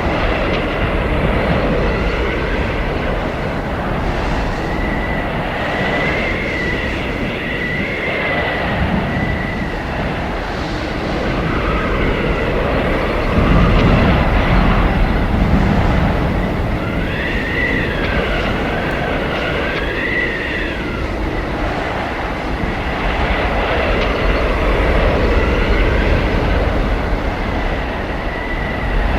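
Blizzard wind blowing hard with a steady deep rumble, and a high whistling howl that rises and falls, most clearly around six to nine seconds in and again around seventeen to twenty-one seconds in.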